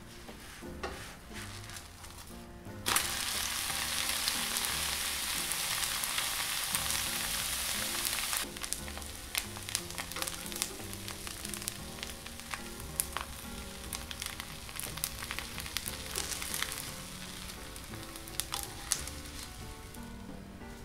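Thin crepe batter frying in a lightly oiled nonstick pan. The sizzle jumps suddenly louder about three seconds in, then eases at about eight seconds to a lighter sizzle with sharp crackles and spits. Soft background music runs underneath.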